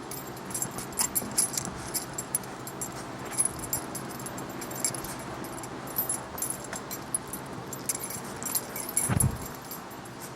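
Light metallic jingling and clinking that comes and goes in quick runs while a dog plays, with one dull thump about nine seconds in.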